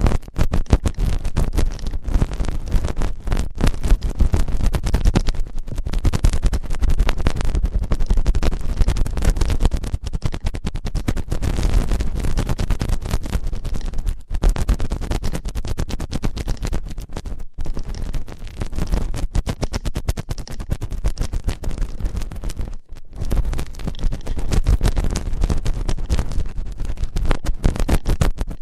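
ASMR ear cleaning on a microphone's ear: dense, rapid scratching and crackling close against the mic, with a few brief pauses.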